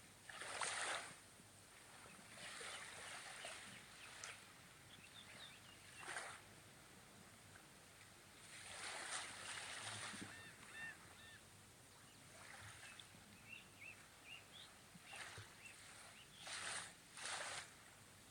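Small sea waves breaking and washing on the shore every few seconds, with a short run of faint high bird chirps about halfway through.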